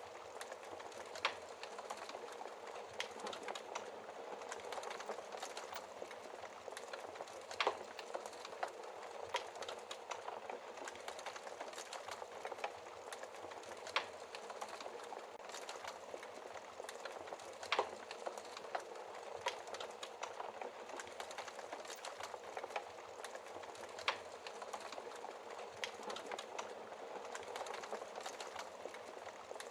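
Wood fire crackling in a fireplace: a soft steady hiss full of small crackles, with a louder sharp pop every few seconds.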